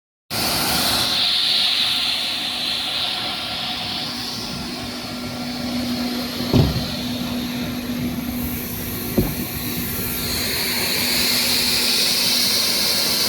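Ginger high-pressure spray washing machine running: a steady hiss of water spray over an even motor hum, with two knocks about two and a half seconds apart midway.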